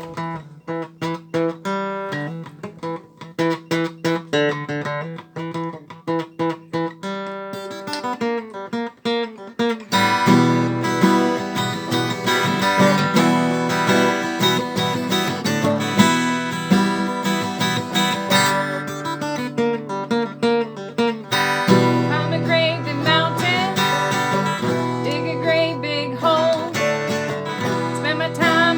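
Instrumental intro of a song on acoustic guitar: picked notes at first, then a fuller strummed accompaniment from about ten seconds in. Near the end a wavering melody line joins over it.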